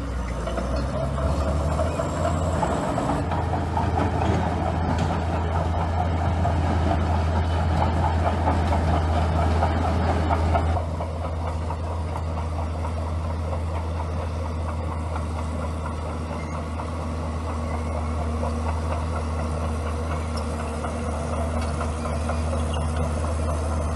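Bulldozer's diesel engine running steadily, with a rougher clattering noise on top that drops away about eleven seconds in.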